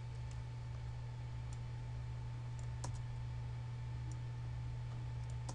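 A few scattered, faint clicks of a computer mouse and keyboard over a steady low electrical hum.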